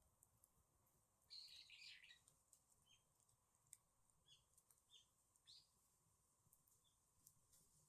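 Faint wild songbirds chirping: a short flurry of chirps about a second and a half in, then scattered single high chirps.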